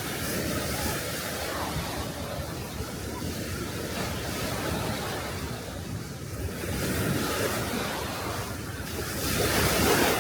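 Sea waves washing up on a beach, in swells that rise and ease, the loudest one near the end, with wind on the microphone.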